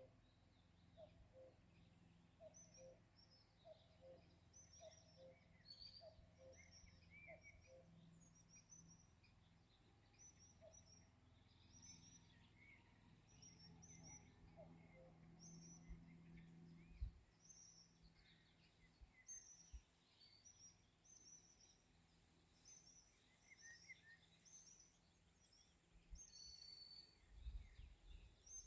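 Faint evening birdsong: many small birds chirping and trilling all through, with a lower call repeating steadily for the first several seconds. A few low bumps on the microphone midway and near the end.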